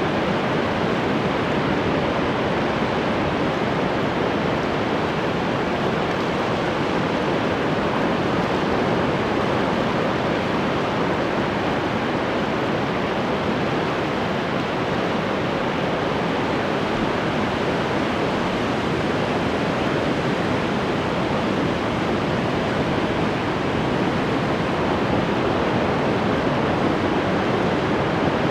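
Ocean surf: a steady, unbroken wash of breaking waves with no separate crashes standing out.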